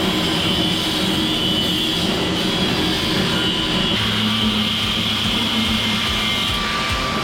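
An electric power tool's motor runs steadily with a high whine, as the inside of a fiberglass boat hull is sanded and cleaned up. A deeper hum joins about four seconds in.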